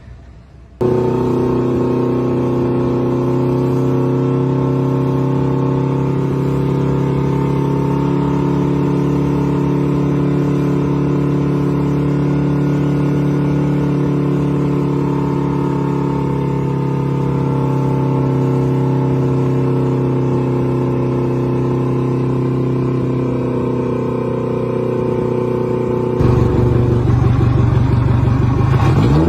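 Motorboat engine running steadily at a constant speed. Its note changes about 26 seconds in, and near the end the pitch sweeps as the engine speed changes.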